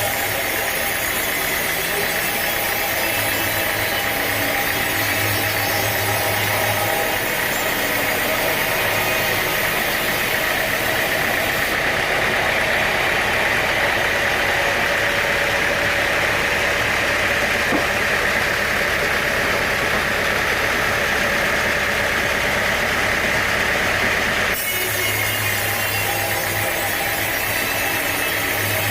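Sawmill machinery running steadily: an engine hum under a loud, even saw whine. The sound changes abruptly about twelve seconds in and again near twenty-five seconds.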